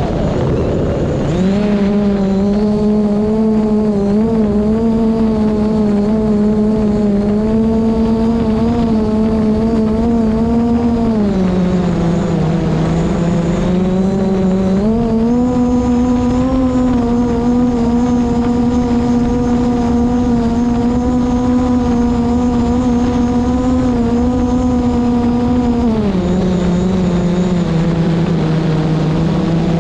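DJI Mavic Pro quadcopter's propellers humming steadily, the pitch dropping about twelve seconds in, rising again about three seconds later and dropping once more near the end as the motors work against the wind. Strong wind rumbles on the microphone underneath.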